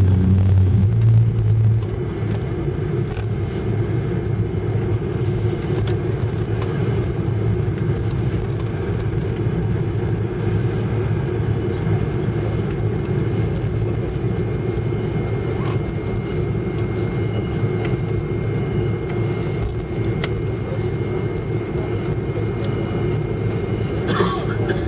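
Airliner cabin noise while taxiing after landing: a steady low rumble from the jet engines and the rolling aircraft. A deeper hum drops away about two seconds in, and a brief higher sound comes near the end.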